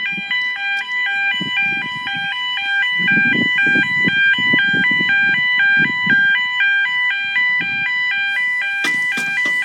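UK level crossing warning alarm sounding, two tones alternating steadily about twice a second as the barriers come down. A low, uneven rumble comes and goes underneath.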